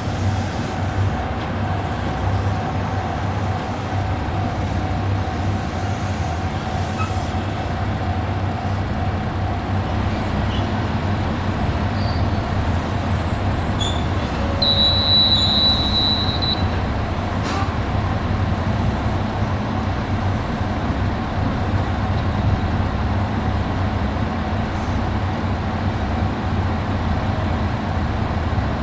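Steady running rumble of a JR Shikoku 2700 series diesel railcar on the move, with a short high-pitched squeal about halfway through.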